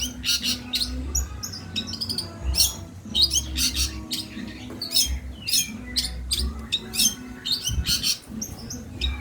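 Long-tailed shrike (cendet) singing a dense, fast run of sharp high chirps and rapid trills, its song filled with mimicked calls of the bulbul, the tree sparrow and fighting lovebirds.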